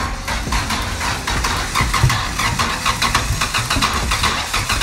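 Honda Civic four-cylinder engine running in an open, partly stripped engine bay, with a fast, uneven patter of sharp pops.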